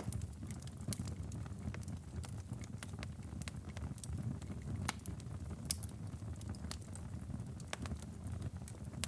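Wood fire in a stone fireplace crackling and popping, with irregular sharp pops over a steady low rumble. The loudest pop comes a little past halfway.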